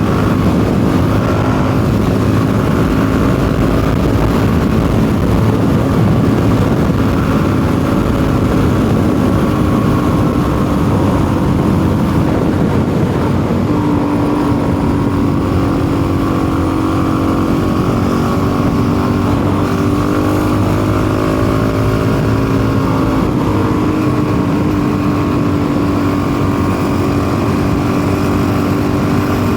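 Custom motorcycle's engine running on the road, its note steady, with a step up in pitch about halfway through and a brief dip and recovery a few seconds later. The engine is not running right, which the rider suspects is a carburettor tuning fault, the mixture too rich or too lean.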